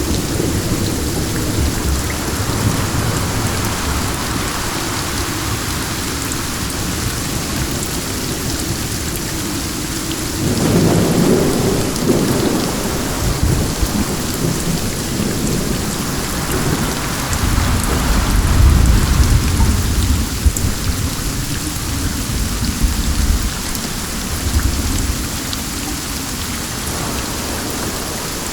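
Steady rain with thunder rumbling twice, once about ten seconds in and again, longer, from about seventeen seconds in.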